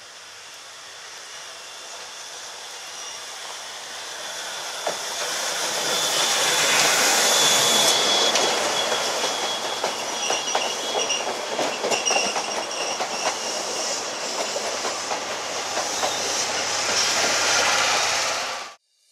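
C58 steam locomotive and its passenger coaches passing close by on curved track: the sound builds over the first several seconds as the engine approaches, then the coaches' wheels click steadily over the rail joints with a thin, high wheel squeal. The sound cuts off suddenly near the end.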